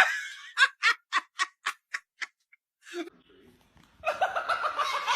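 A person laughing in short, evenly spaced bursts, about four a second, then a pause; near the end a louder, busier stretch of sound begins.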